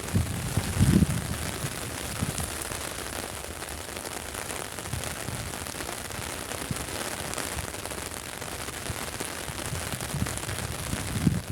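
Heavy rain falling in a steady, dense hiss, with a few short low thumps about a second in and again near the end.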